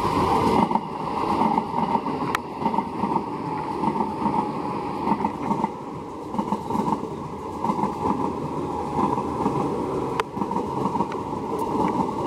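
KRL Commuter Line electric train passing close by at speed: a steady rumble of wheels on the rails, pulsing as the cars go past, with a few sharp clicks, over heavy rain.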